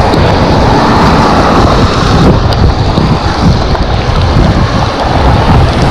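Wind buffeting the microphone of a camera on an e-bike riding at speed in the rain: a loud, steady rush with a rumbling low end.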